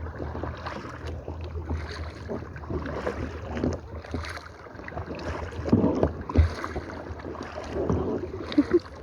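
Kayak paddles dipping and splashing in the water in uneven strokes, with wind rumbling on the microphone in the first few seconds.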